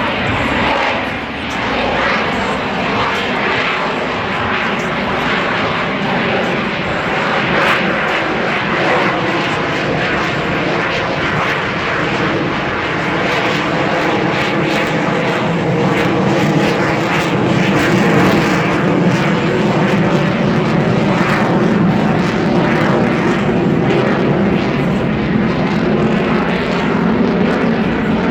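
Aircraft engine noise running steadily and loudly, a constant roar with a held whine, growing slightly louder about halfway through.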